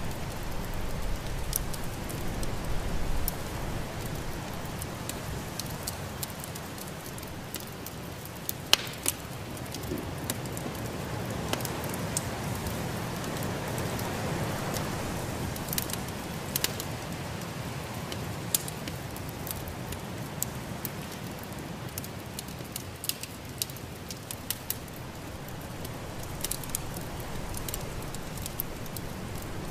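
Wood fire crackling in a fireplace, with sharp pops at irregular intervals, one louder about a third of the way in, over a steady rushing noise of storm wind.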